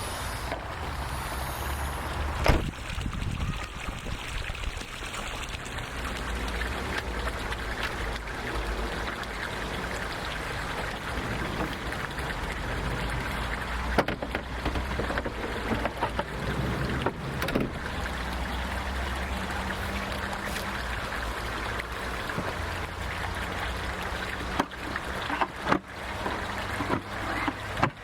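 Steady trickling, flowing water with a low rumble underneath, broken by a few sharp knocks and clicks, most of them near the end.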